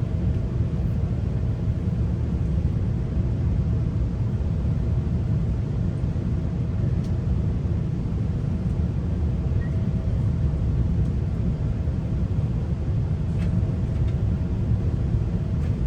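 GO Transit commuter train in motion, heard from inside a passenger coach: a steady low rumble of the wheels on the rails, with a faint steady hum and a few faint clicks.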